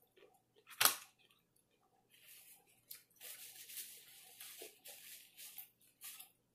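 Close-up eating noises from chewing barbecue: one sharp wet smack about a second in, then from about two seconds in a run of squishy, crackly chewing and smacking.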